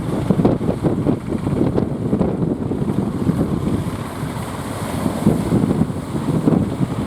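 Strong wind buffeting the microphone, a loud, uneven low rumble that swells and eases with the gusts.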